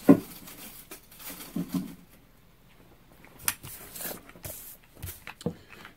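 Small clicks, taps and rustles of hands handling things at a workbench, with a short murmur about a second and a half in.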